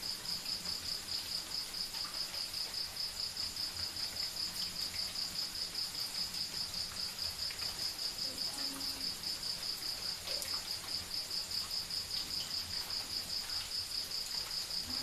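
Crickets chirping in a steady, even pulse of high-pitched chirps, with faint low calls now and then behind them.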